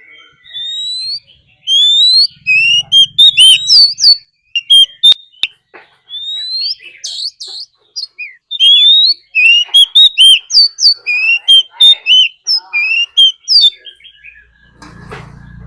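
Oriental magpie-robin singing its competitive fighting song: quick runs of loud, clear rising whistles and sharp notes, broken by short pauses.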